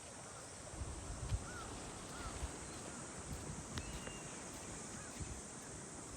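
Outdoor ambience: wind buffeting the microphone over a steady hiss, with a few short chirping bird calls.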